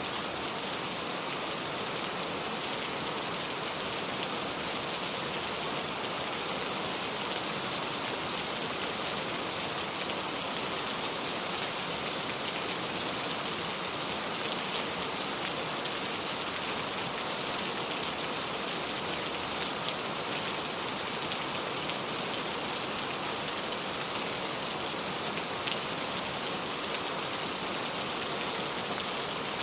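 Heavy rain pouring steadily, an even hiss with many fine drop patters and no change in intensity.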